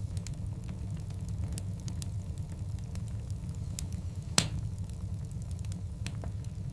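Wood fire burning: a steady low rumble of flames with scattered sharp crackles, and one loud pop about four and a half seconds in.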